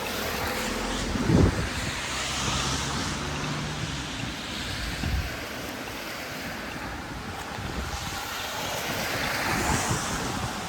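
Wind buffeting the microphone, with a low thump about a second and a half in, over a steady hiss of outdoor street ambience that swells twice.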